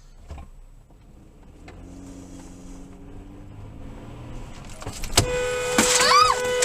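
Car on the road with engine and road noise, then a sharp bang about five seconds in. A car horn follows, held steadily, with a brief squealing rise-and-fall over it.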